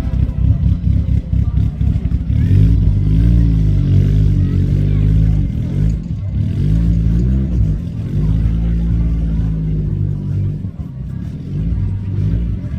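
Car engine running at a fast, lumpy idle, then revved up and held, dropping back briefly about six seconds in before being revved again, easing off and rising once more near the end.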